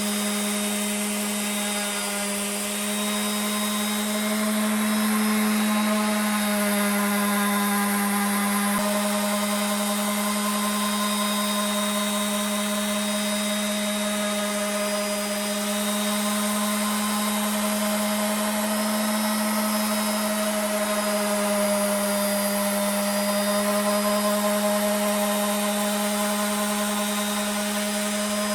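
An electric power tool's motor running steadily at an even pitch, drifting slightly higher and lower now and then.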